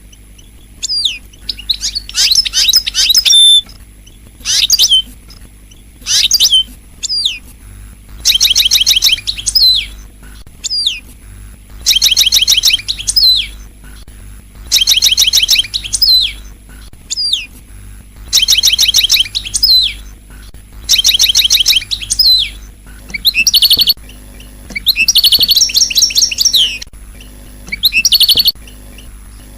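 European goldfinch singing: a regular series of short, fast, high trilled phrases, about one every two seconds, with single downslurred call notes between them.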